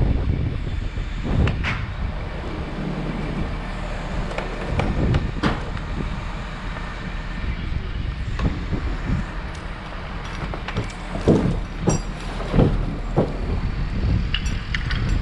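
A large engine running steadily, likely heavy lifting equipment holding a tree on chains. Scattered knocks and clanks sound over it, the loudest about two thirds of the way in.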